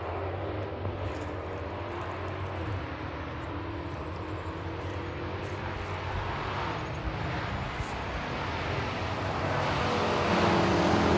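Straight-piped Dodge 5.7-litre HEMI V8 exhaust running at steady low revs, growing gradually louder.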